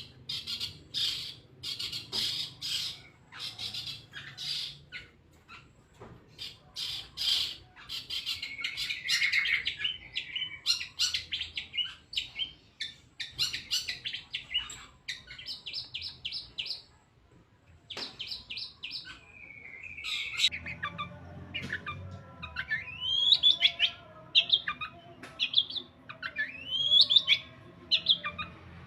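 Long-tailed shrike (cendet) singing: a fast, harsh chatter of rapid ticking notes, then, after a brief pause, a run of short rising whistled notes.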